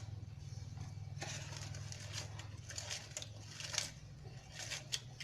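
A halved lemon being squeezed by hand for its juice: a few faint, irregular wet squeezing sounds over a low steady hum.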